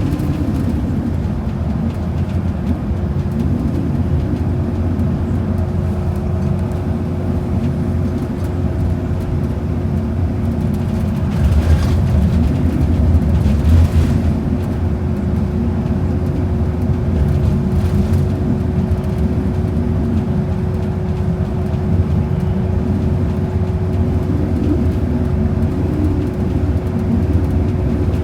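Inside a moving bus: engine and road rumble with a steady drone, swelling a little about halfway through.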